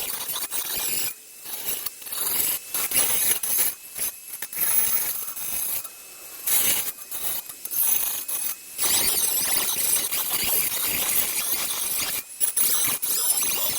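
Dremel rotary tool cutting metal on an exhaust tip, its high-pitched whine and grinding coming in bursts with short pauses between.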